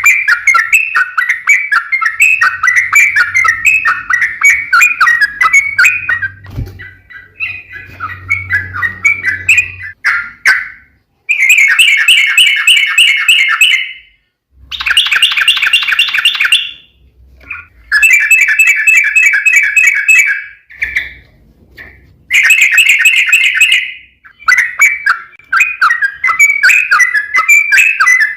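Yellow-vented bulbul (trucuk) singing in long, rapid-fire chattering trills ('ropel panjang'). It chatters on without a break at first, then sings several dense bursts of about two and a half seconds each, separated by short pauses, and near the end goes back to continuous chattering.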